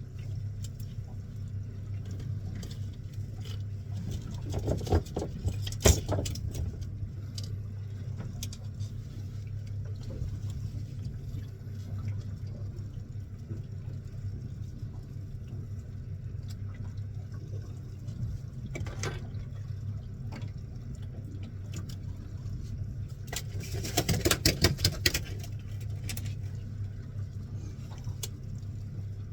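Fishing boat's engine running with a steady low hum, broken twice by short bursts of clattering and knocking, once about five seconds in and again near the end.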